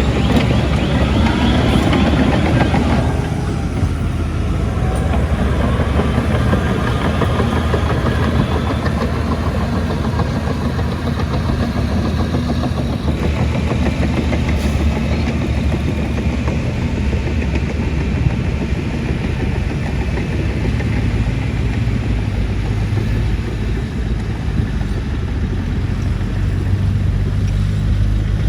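Heavy diesel construction machinery such as a bulldozer running steadily, with wavering high-pitched squealing in the first three seconds.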